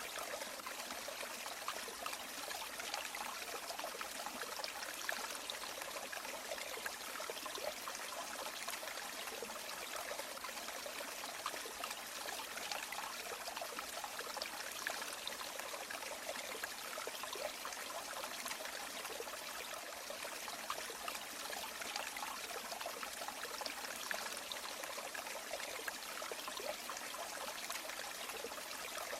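River water flowing over stones: a steady rush with many small trickles and splashes, light on low rumble.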